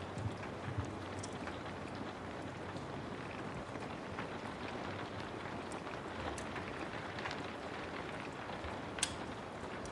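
Steady rain with a wood fire crackling, scattered sharp pops over the even hiss of the rain, the loudest pop about nine seconds in.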